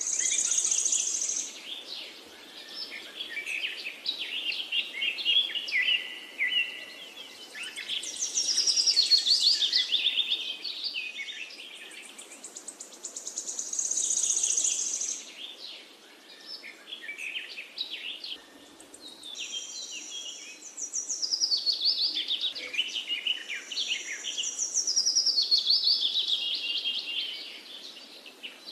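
Songbirds singing: phrases of quick, high chirping notes, often running downward, coming every few seconds with quieter gaps between.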